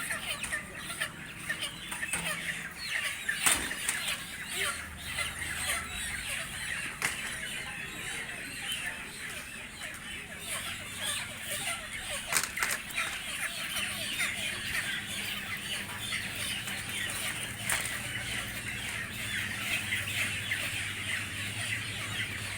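A large flock of broiler chickens squawking and flapping their wings as they are handled and unloaded from a truck, with a few sharp knocks in between.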